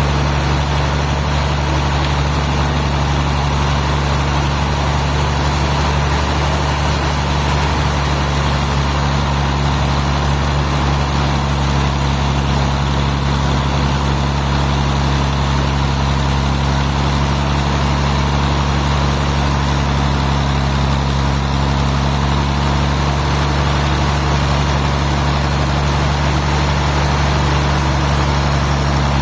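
Sawmill machinery running steadily, a loud, even, low engine-like drone that does not change.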